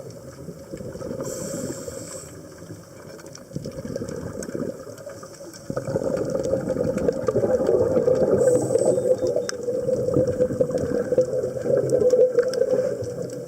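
Scuba regulator breathing heard underwater: a short hiss of inhaling, then bubbling of exhaled air, twice. The second exhale is louder and lasts from about halfway through to the end.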